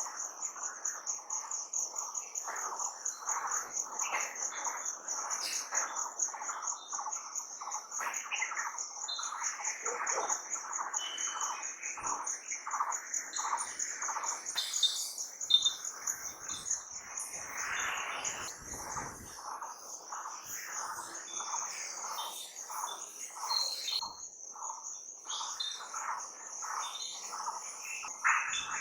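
Many birds chirping and calling in quick, overlapping short notes over a continuous high, fast-pulsing insect trill.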